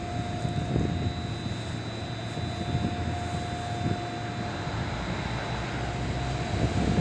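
JR East HB-E210 series hybrid (diesel-electric) railcar running, with a low engine rumble and a steady high whine.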